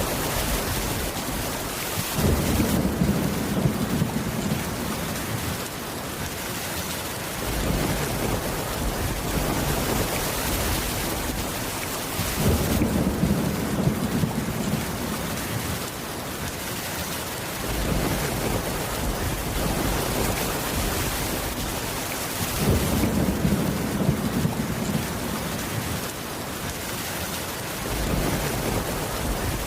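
Steady heavy rain with rolling thunder. Low rumbles of thunder come in sharply three times, about ten seconds apart, and each lasts about five seconds.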